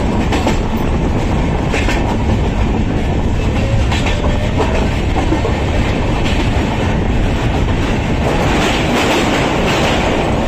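Passenger express train running at speed, heard from an open coach doorway: a steady rumble of wheels on rail with a few clacks of wheels passing over rail joints.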